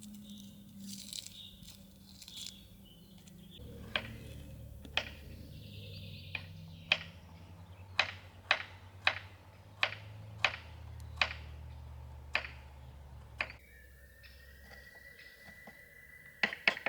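Knife chopping on a wooden cutting board: a dozen or so sharp knocks, half a second to a second apart, over a low hum.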